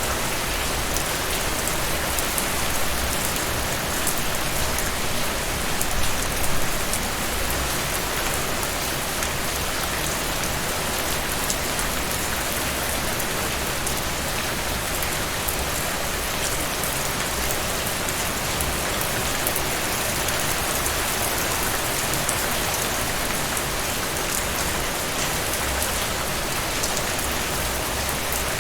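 Heavy, steady rain falling, a dense hiss of drops with fine spattering ticks, swelling a little louder for a moment several seconds in.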